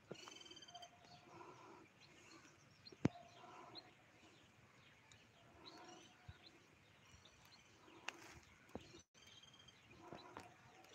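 Faint birdsong: a short phrase of high trilled notes over lower notes, repeated about every two seconds. A few sharp clicks break in, the loudest about three seconds in.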